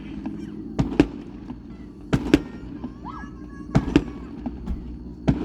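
Aerial fireworks going off in a show, sharp bangs coming in quick pairs about every second and a half, four pairs in all.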